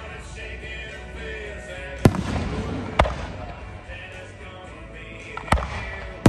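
Aerial firework shells bursting, with sharp bangs about two and three seconds in and two more near the end, over background music.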